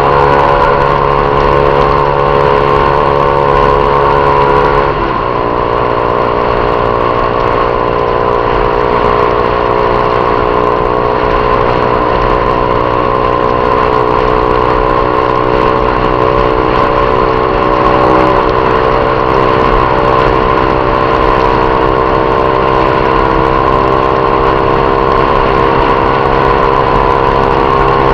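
Honda CG 150 Titan's single-cylinder four-stroke engine running steadily under way through a Viúva Negra aftermarket exhaust. About five seconds in the engine note dips briefly, then holds steady again.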